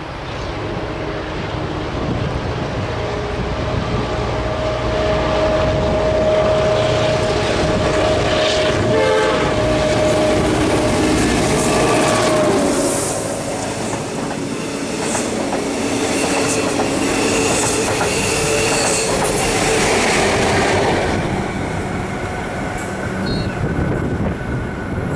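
T class diesel-electric locomotive T381 passing close with a rake of Comeng electric suburban cars in tow: the locomotive's engine sound builds over the first few seconds and the wheels clatter over the rail joints. A long held tone sounds through the middle, and short high screeches from the wheels come in the second half before the sound fades near the end.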